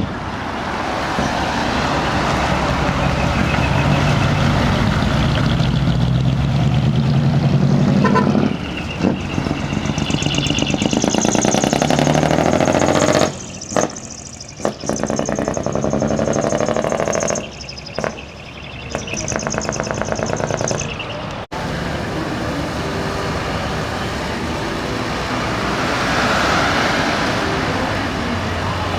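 Large decorated trucks driving off one after another: diesel truck engines running and revving, with a horn sounding.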